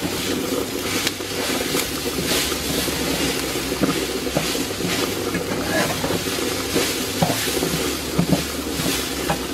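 Rice and diced vegetables sizzling as they fry in an aluminium pot, with a wooden spoon stirring and scraping through them in repeated strokes.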